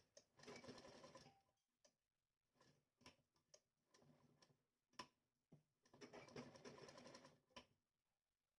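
Near silence with faint sewing-work sounds: scattered soft ticks and two short stretches of fabric handling, near the start and about six seconds in.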